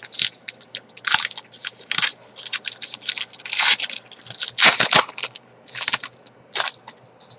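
Foil wrapper of a trading-card pack being torn open and crinkled, giving an irregular run of sharp crackles and crunches.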